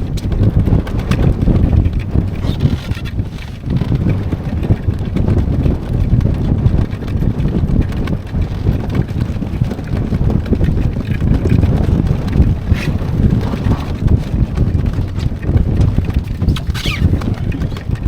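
Strong wind buffeting the microphone aboard a small sailboat under way in a blow, a loud, gusty, continuous rumble.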